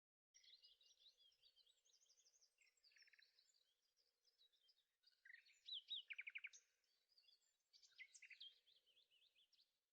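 Faint birdsong: a rapid run of varied chirps and short trills, busiest about six seconds in.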